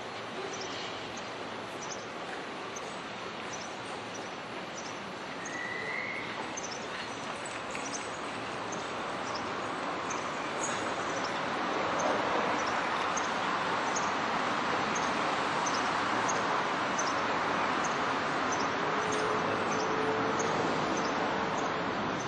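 Kintetsu 1026 series electric commuter train passing through a station without stopping: its running noise swells as it nears and is loudest from about halfway on. A bird chirps over it about twice a second.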